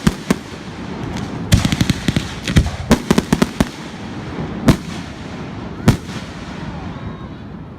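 Fireworks going off: a cluster of rapid crackling bangs, then a dense volley of cracks, then two single loud bangs, each followed by a rumbling echo that dies away near the end.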